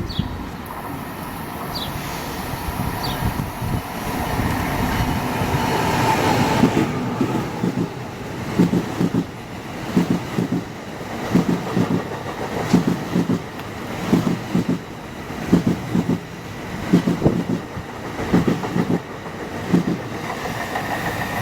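Commuter passenger train passing close by, its noise building for several seconds. Then the wheels clack over a rail joint in regular paired beats about every second and a half as car after car goes over it.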